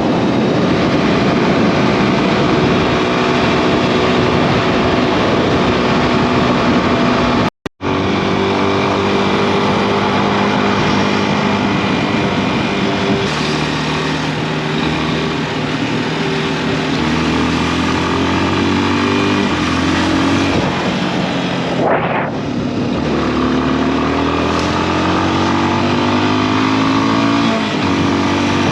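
Yamaha XTZ 250 single-cylinder motorcycle engine running while riding, its pitch rising and falling in steps with throttle and gear changes, over a steady rushing noise. The sound drops out briefly about eight seconds in.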